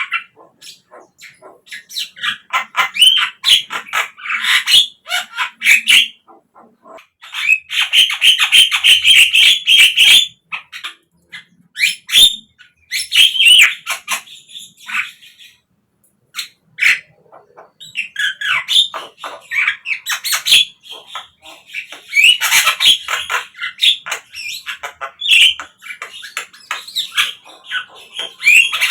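Javan myna calling in bouts of harsh, squawky chatter mixed with short whistled notes, with brief pauses between bouts.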